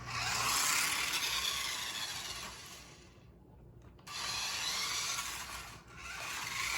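Toy RC car's small electric motor and gears whirring as it drives, in three runs: it stops for about a second about three seconds in and dips again briefly near the end.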